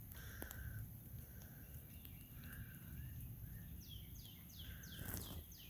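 A songbird calling a run of quick down-slurred notes, about three a second, starting near the end, over a steady low outdoor rumble, with a single short knock just before the end.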